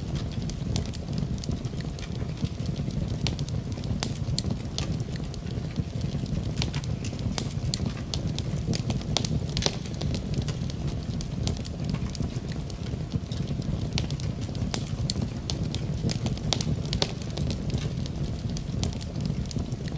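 Wood fire crackling in a fireplace, with irregular sharp pops and snaps over a steady low rumble of flame, mixed with steady rain.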